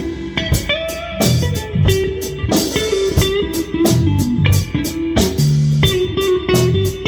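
Live rock band jamming: electric guitar playing a bluesy line over bass and a drum kit keeping a steady beat.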